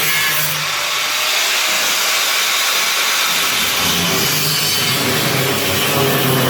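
Power tool cutting and grinding through car body sheet steel, a steady, continuous rasping noise with a wavering low hum under it.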